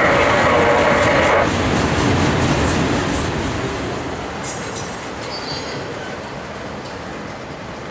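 A diesel locomotive horn sounds, a steady chord that cuts off about a second and a half in. After it, a string of autorack freight cars keeps rolling past, wheels rumbling on the rails, the noise slowly dying down. A brief high wheel squeal comes about halfway through.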